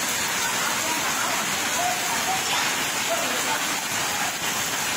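Heavy rain falling steadily onto flooded ground, an even, unbroken hiss of water.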